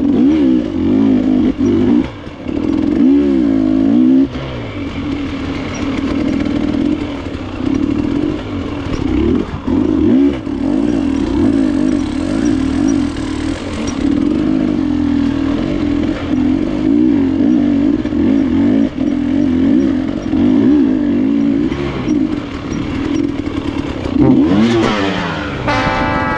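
KTM enduro motorcycle engine running hard, its revs rising and falling with the throttle. Near the end comes a brief clatter as a tree root takes the bike down.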